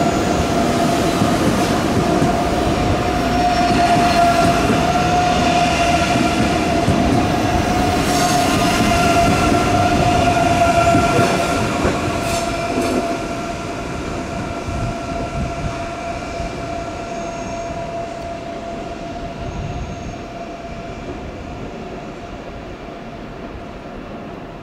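A train moving on station tracks: rumbling running noise with a steady high whine over it. A few sharp clicks sound about halfway through, and the train grows steadily fainter through the second half.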